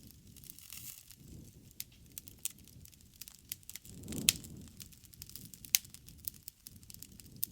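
Wood fire burning, with irregular sharp crackles and pops over a soft low rush of flame; the loudest pop comes about four seconds in.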